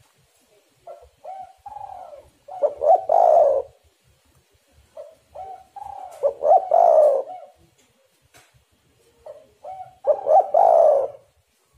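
Spotted dove (tekukur) cooing its song three times, about four seconds apart. Each phrase is a few short, soft coos building to a loud, drawn-out final coo.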